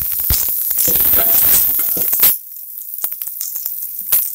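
Oil sizzling and crackling in an aluminium pot as shallots, garlic and a whole tomato sauté, with a metal ladle stirring and knocking against the pot. About two seconds in the sound drops suddenly to a quieter, thinner sizzle with occasional ticks.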